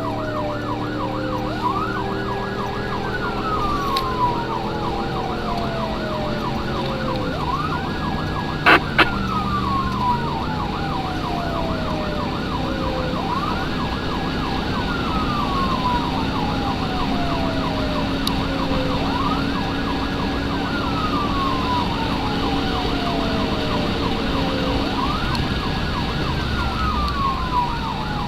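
Emergency vehicle sirens running code 3: a fast warbling yelp overlaid with a wail that climbs quickly and falls slowly, about every six seconds, over the hum of the vehicle's engine. About a third of the way in, the engine note drops and recovers, and two short sharp sounds stand out loudest.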